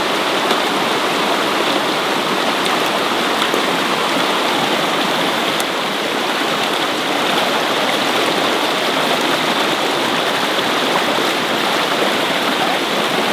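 Steady, unbroken rush of water, loud and even throughout.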